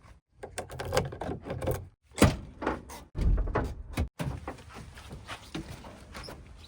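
Backhoe loader at work: a low engine rumble with repeated clanks and heavy thuds, the loudest about two seconds in. The sound cuts off abruptly several times, as short clips are joined.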